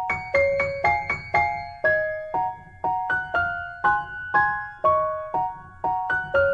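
Background piano music: a slow, gentle melody of single struck notes, about two a second, each ringing and dying away.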